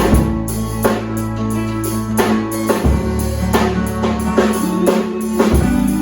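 Live gospel praise band playing without singing: held bass notes that change about every three seconds under guitar chords, with drums keeping a steady beat.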